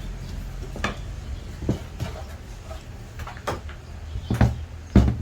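Irregular knocks and clatter of hard objects being handled and set down, about six in five seconds, the loudest near the end: tools and grinder parts being handled on a workbench.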